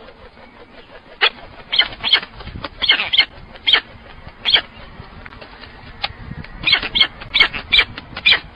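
A bird giving short, sharp, harsh calls in irregular bunches, two clusters of about half a dozen each.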